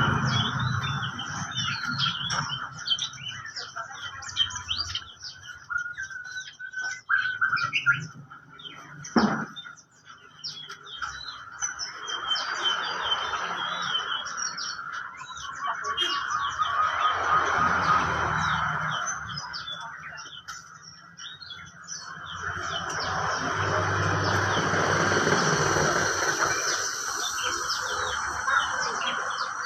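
Many small birds chirping at once, a dense mix of short high calls with no pause. Under them, a background noise swells and fades a few times.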